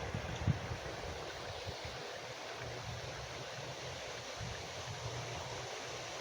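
Wind blowing outdoors with a steady rushing hiss, buffeting the microphone with low gusts in the first half second before settling into a steadier low rumble.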